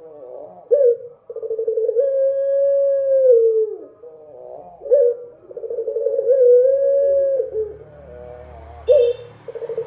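Ringneck dove (Indonesian puter) cooing: three long coos, each opening with a short upward flick, held for about two seconds and then dropping in pitch, about four seconds apart.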